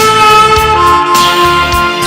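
Saxophone holding two long notes, stepping down to the second a little under a second in, over a band accompaniment with drums and guitar.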